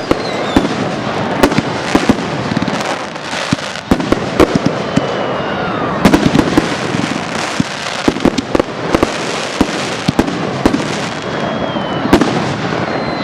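Aerial fireworks exploding in rapid, overlapping volleys: many sharp bangs over a continuous crackle, with a few faint falling whistles.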